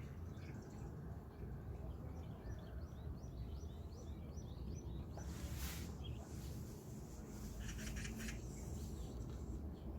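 Small birds chirping at dawn over a steady low outdoor rumble: first a run of short rising chirps, about two or three a second, then a fast stuttering call about eight seconds in. A brief hissing burst comes about halfway through.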